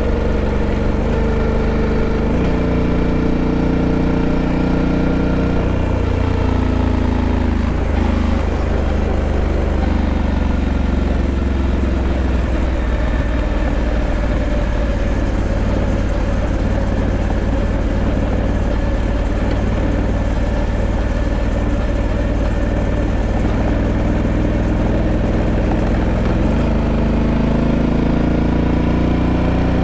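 Honda Africa Twin 1100's 1084 cc parallel-twin engine running steadily. Its pitch drifts slowly, jumps about two seconds in, and rises suddenly near the end.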